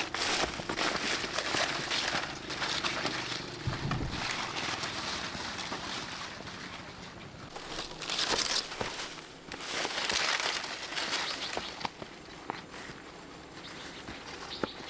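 Dry crinkling and rustling in irregular bursts, strongest about eight and ten seconds in, with a dull thump about four seconds in.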